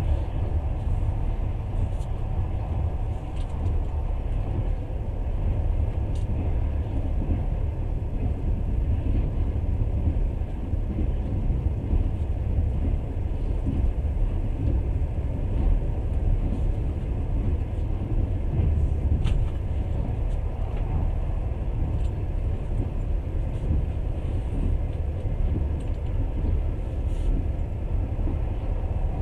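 Passenger train running, a steady low rumble of wheels on the rails heard from inside the carriage, with a few faint clicks.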